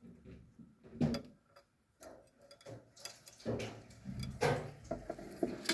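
A run of irregular small clicks and light taps, sparse at first and growing busier and louder over the last couple of seconds.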